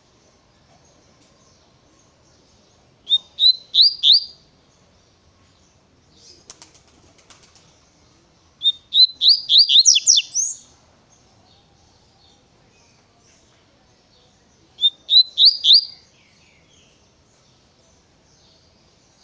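Double-collared seedeater (coleiro) singing the 'tui-tui' song: three short phrases of quick, rising whistled notes, the middle one the longest. A faint flutter of soft clicks comes between the first and second phrases.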